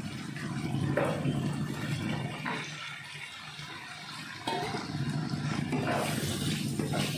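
Wooden spatula stirring and scraping a fried spice paste and sliced onions around a hot wok, with the oil sizzling; the sound steps up suddenly about four and a half seconds in, and a few scraping strokes stand out.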